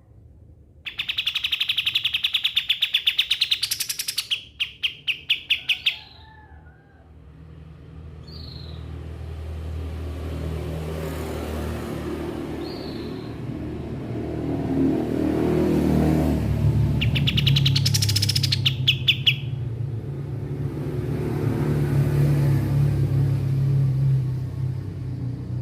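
A kapas tembak songbird giving fast, rattling chattering trills: one bout about a second in lasting several seconds, and a second shorter bout near 17 seconds, with a few short high notes between. A steady low rumble runs underneath in the second half.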